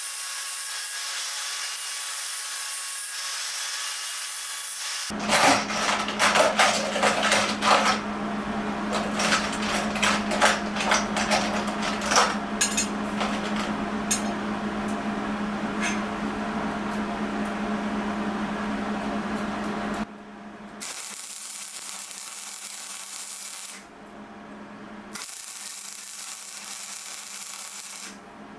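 Workshop tool work: an electric power tool running with a steady hum, with rattling, scraping and sharp knocks over its first several seconds. The sound then breaks into short clips that start and stop abruptly.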